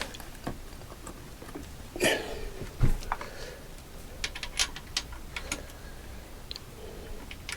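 Scattered light clicks and clinks of bolts and hand tools being handled and fitted, with a couple of louder knocks about two and three seconds in.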